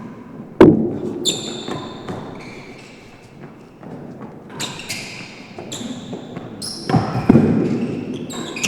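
Real tennis rally: a hard ball struck by racquets and knocking off the walls and floor of an enclosed court, each knock echoing. The loudest knock comes about half a second in, and short high squeaks come between the knocks.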